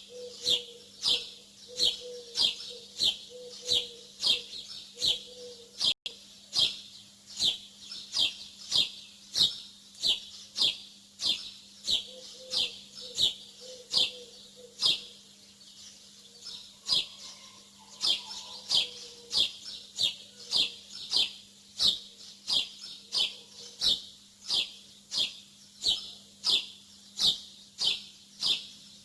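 A small bird chirping over and over, about two short, high, falling chirps a second in a steady rhythm.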